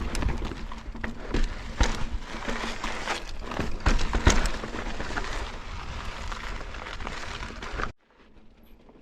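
Mountain bike being ridden over rough slickrock: wind noise with frequent knocks and rattles from the bike and tyres hitting rock. The noise cuts off abruptly about eight seconds in.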